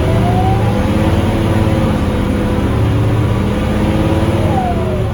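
Scania K310UA articulated bus with its Scania DC9 engine running on the move: a steady low drone with a whine over it that rises in pitch at the start, holds, and falls again near the end.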